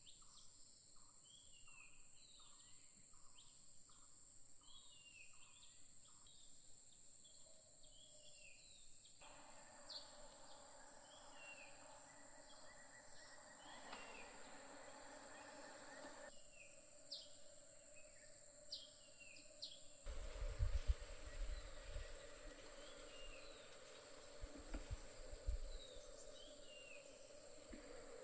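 Faint outdoor ambience: a steady high-pitched insect drone, repeated short falling bird chirps and, in the first few seconds, a rapid pulsing call. In the last third, bursts of low rumbling wind on the microphone.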